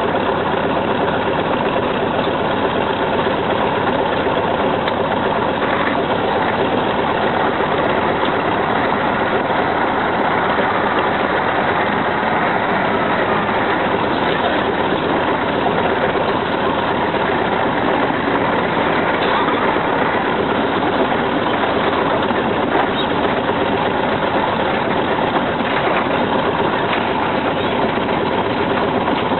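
Heavy machine's engine running steadily and loudly close by, with no change in pace.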